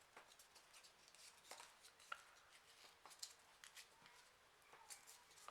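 Faint rustles and small clicks of folded printer-paper origami pieces being handled and pushed together, over near silence.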